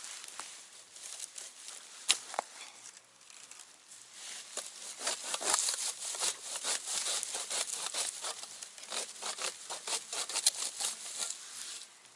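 Irregular crackling and rustling of twigs and small branches being handled, with a sharp snap about two seconds in and denser crackling through the second half.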